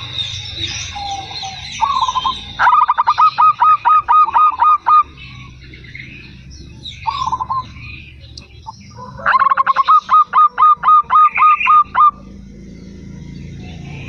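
Zebra dove (perkutut) cooing: two runs of rapid repeated notes, each lasting two to three seconds, with short single coos before each run. Faint higher chirps of other small birds near the start.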